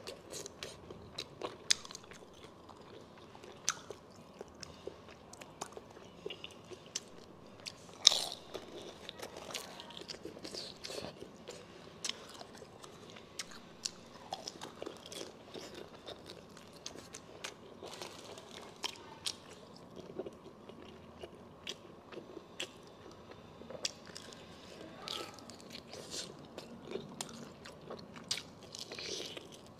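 Close-miked biting and chewing of pork large intestine: a steady run of eating sounds with many sharp, irregular clicks, the loudest about eight seconds in.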